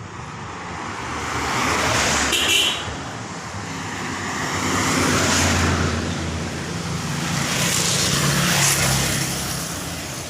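Road traffic: vehicles passing one after another, three passes swelling and fading, with a brief high-pitched tone near the first one.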